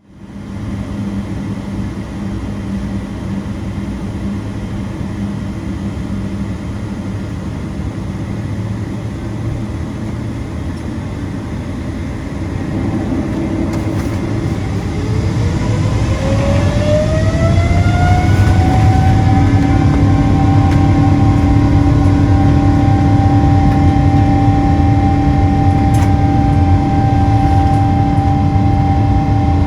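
Boeing 777-200ER's GE90-92B turbofans heard from inside the cabin: a steady rumble, then about halfway through the engines spool up, a whine rising in pitch over several seconds as the sound grows louder, before it settles into a steady high tone over a heavy rumble as takeoff thrust is set.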